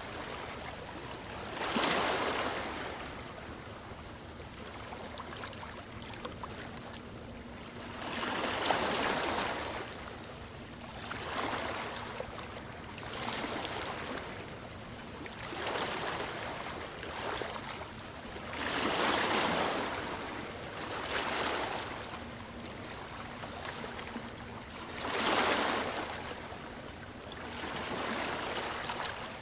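Ocean waves breaking and washing in, rising and falling in surges every few seconds, with a few bigger swells.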